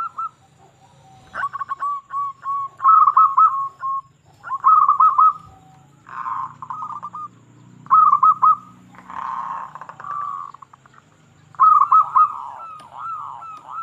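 Zebra dove (perkutut) cooing: phrases of quick, warbling coo notes, with short pauses between them. Near the end the notes turn into a faster run of looping, bouncing coos.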